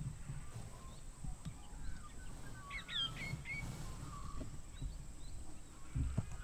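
Faint wild birds chirping, with a short cluster of quick gliding chirps about three seconds in, over a low steady rumble.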